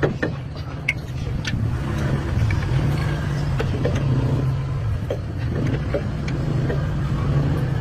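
An engine running steadily with a low drone, with scattered light clicks and knocks over it.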